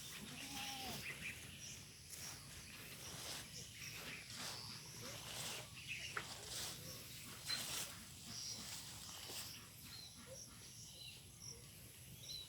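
Faint outdoor sounds: scattered crackling and rustling, with short high chirps and a brief low animal call about half a second in, over a steady high whine.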